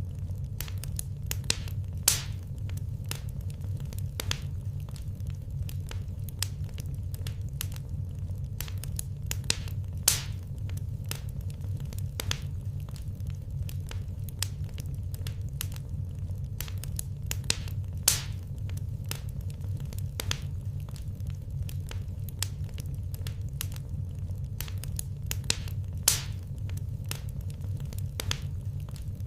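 Wood fire in a fireplace crackling: a dense run of small sharp snaps over a steady low rumble, with a louder pop about every eight seconds.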